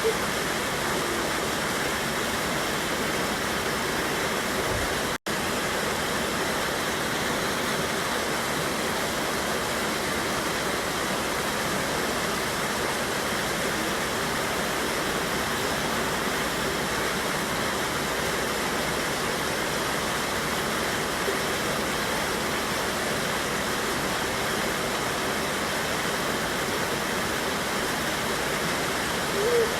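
A river waterfall: a steady, even rush of water falling and churning over rocks. The sound cuts out for a split second about five seconds in.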